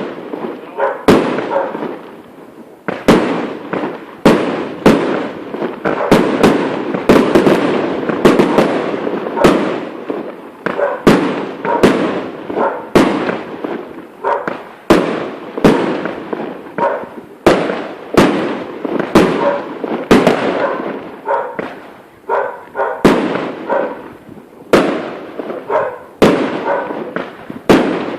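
Rockets from a lluvia de cohetes going off in rapid succession: loud sharp bangs, one or two a second at irregular intervals, over a continuous crackling rush.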